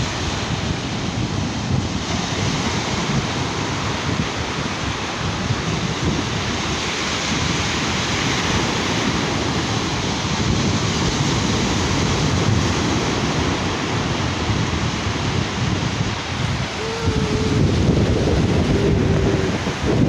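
Sea waves washing onto a beach, with wind buffeting the microphone. A few brief tones come through near the end.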